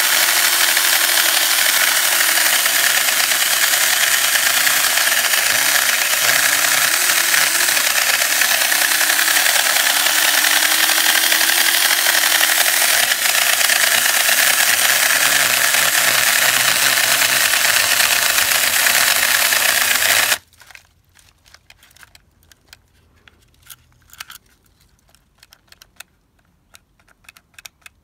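Battery-powered handheld mini chainsaw running steadily as it cuts through a limb about 4 inches thick, then cutting off suddenly about 20 seconds in. A few faint clicks and rustles follow.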